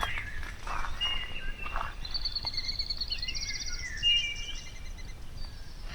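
Several wild birds singing and calling at once: thin high whistled notes, a rapid trill and short chirps and gliding calls, over a low steady background rumble.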